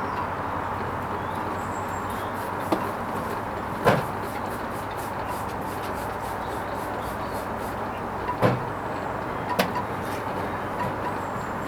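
Hoover Vision HVP16 washing machine running on its Silks 30 cycle: a steady machine hum with a handful of separate knocks from the drum, two of them deeper thuds.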